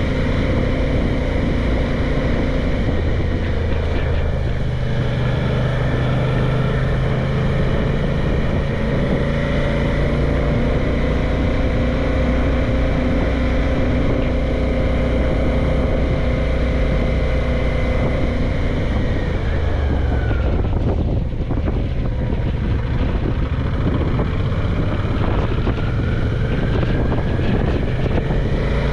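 Suzuki V-Strom motorcycle engine running steadily under way, with wind rushing over the microphone. About two-thirds of the way through the engine note falls as the bike slows, then rises again as it speeds back up.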